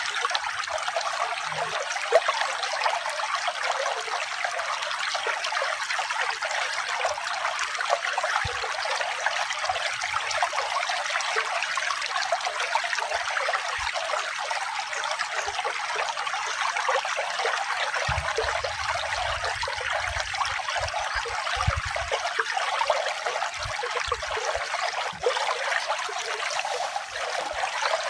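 Steady trickling and babbling of flowing water, like a small stream, with constant small splashes and no pauses.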